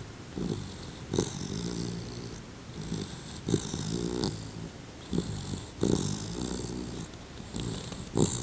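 Two-month-old Labrador retriever puppy snoring in its sleep: about four snoring breaths in a steady rhythm, roughly one every two seconds, each starting sharply and running on as a buzzing rattle for about a second.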